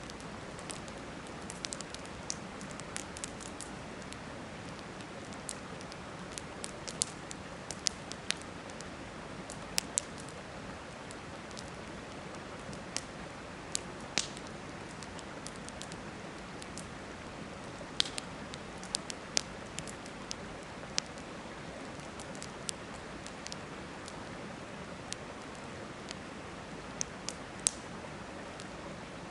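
Wood campfire crackling, with irregular sharp pops, over the steady rush of a river.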